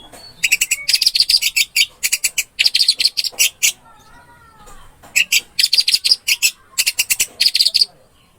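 Orange-headed thrush (anis merah) singing: three bursts of rapid, sharp, high repeated notes, with a quieter gliding phrase about four seconds in.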